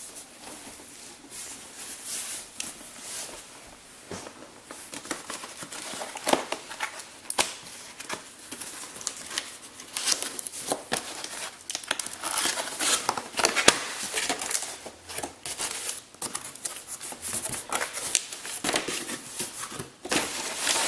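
Hands opening a cardboard box and handling the packaging inside: irregular rustling, crinkling and scraping with quick sharp strokes, busier in the second half.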